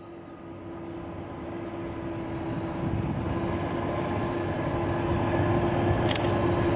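Diesel locomotives of a CSX freight train approaching, a low engine rumble and steady drone growing louder as they come closer.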